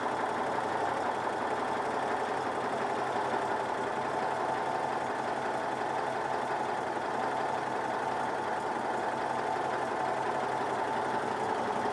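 Citroën 2CV's air-cooled flat-twin engine idling steadily without the choke, just after an engine overhaul, holding its idle well.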